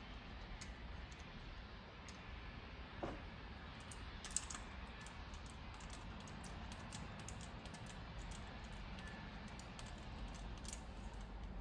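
Faint, irregular light metallic clicking of hand tools tightening bolts on a Ford 3.8L V6, the clicks thickest from about four seconds in, with one sharper click near the start of that run.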